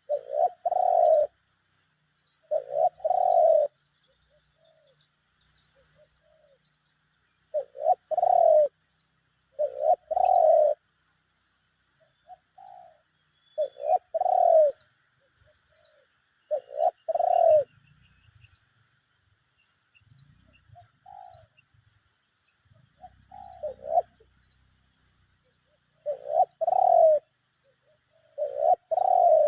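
Spotted doves cooing back and forth, a decoy bird answering a wild one: repeated phrases of two or three low coos every few seconds. Faint chirps of small birds in the background.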